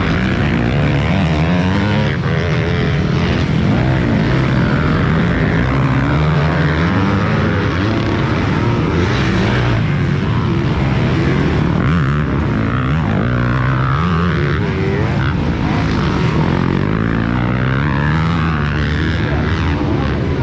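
Several motocross bikes racing together, their engines revving up and down and overlapping.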